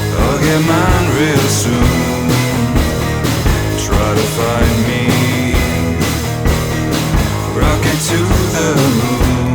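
Rock song in an instrumental stretch: steady drums and bass under a wavering lead melody, with no sung words.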